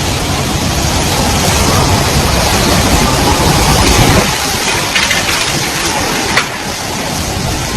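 Heavy rain with a vehicle passing through the downpour and standing water: a rushing noise with a low rumble that swells to its loudest about four seconds in, then eases. A single sharp click about six and a half seconds in.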